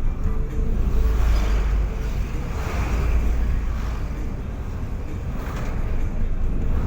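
Low rumble and rushing noise of a moving vehicle, with wind buffeting the microphone; it swells and eases every second or two.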